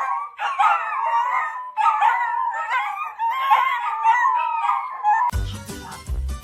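A dog howling in three long, wavering calls with short breaks between them. About five seconds in, music with a heavy bass beat cuts in.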